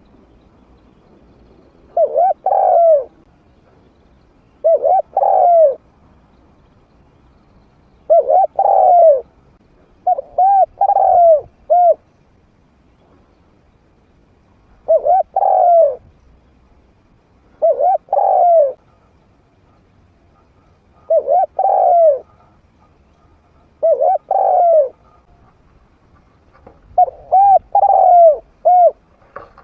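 Spotted dove cooing, a medium-pitched voice: a short phrase of two to four coos repeated about every three seconds, with a longer run of notes near the end.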